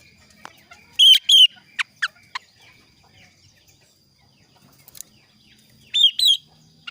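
Male kaso-kaso bird calling: a loud double note about a second in, followed by a few quick downward-sliding whistles, and the same double note again near the end. A faint steady high tone runs underneath.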